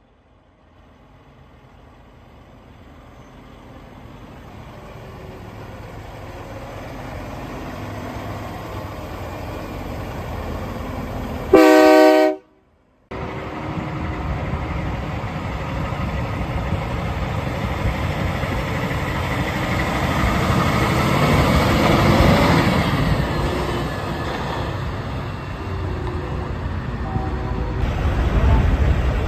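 A heavy vehicle approaches with a steadily building rumble and gives one loud horn blast, then rumbles past loudly.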